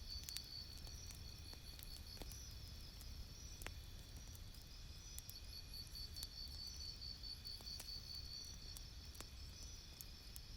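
Campfire crackling faintly, with scattered sharp pops over a low steady rumble. A high pulsing trill, like an insect chirring, runs through it.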